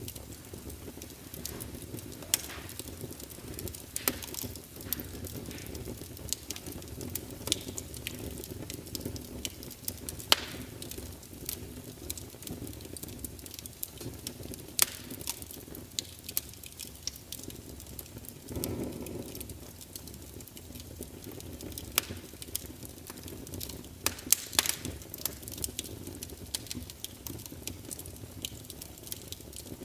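Wood fire burning: irregular sharp crackles and pops over a steady low rush of flame, with a brief low rumble about two-thirds of the way through.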